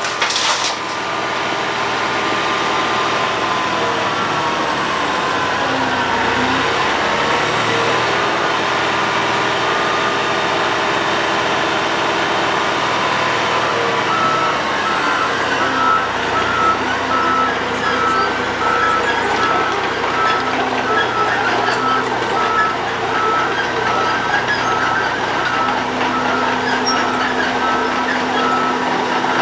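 Road planer (cold milling machine) working, its heavy diesel engine and milling drum running loud and steady, the engine note dipping and picking up again about six seconds in. From about halfway a reversing alarm beeps steadily over the machinery.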